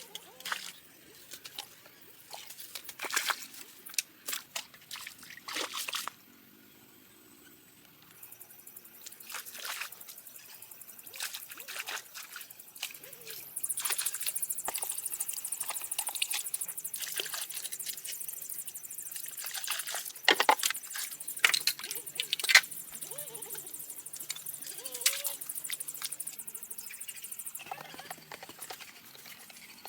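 Water splashing and trickling in irregular bursts. About halfway through, a steady high hiss joins in and stops shortly before the end.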